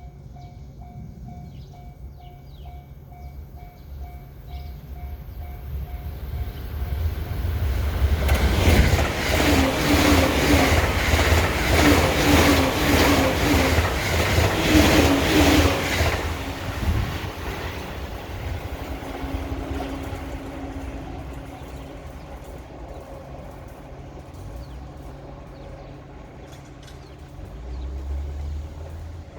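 Level-crossing warning bell ringing at about two strikes a second, then a 12-car JR East E353 series limited express electric train passing at speed from about eight seconds in, its wheels clattering over the rail joints for some eight seconds before the sound fades away.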